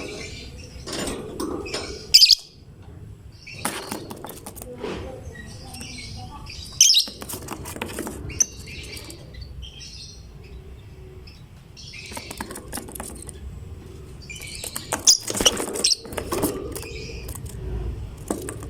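Lovebird chirping in bursts of sharp, high calls, the loudest clusters about 2 seconds in, about 7 seconds in, and near the end.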